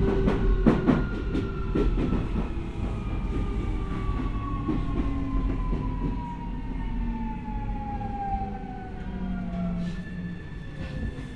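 Keio 1000-series train's inverter and traction motors whining, the pitch falling steadily as the train slows on the approach to a station, with a few wheel knocks over rail joints early on. Near the end a new steady tone sets in.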